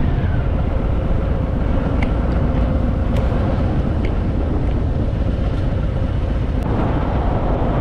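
Harley-Davidson Fat Boy's V-twin engine running, under a steady, loud rush of noise on the rider's microphone.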